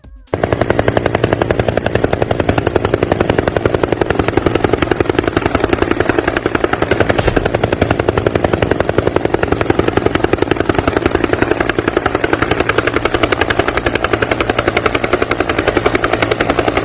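Helicopter rotor blades chopping in a fast, steady beat, loud throughout, starting and stopping abruptly.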